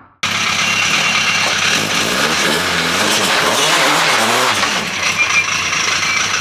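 Car engine running loudly, its revs rising and falling, over a steady rushing noise.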